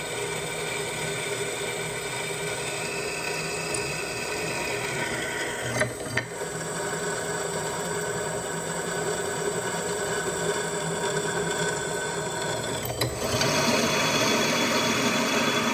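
Drill press running, drilling the pin holes through a leaf-spring steel knife blade; a steady motor sound that gets louder about two-thirds of the way through.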